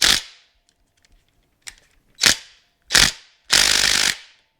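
Metal hand tools working a tight bolt loose on a Suzuki TS250 motorcycle: a few sharp metallic clacks, two of them close together past the middle, then a longer ratcheting noise of about half a second near the end.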